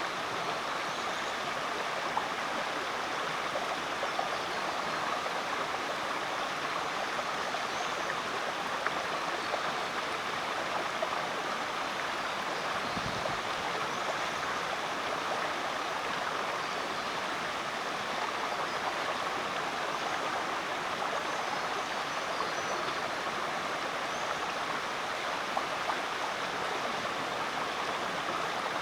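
Creek water flowing steadily, an even rushing and babbling sound that does not change.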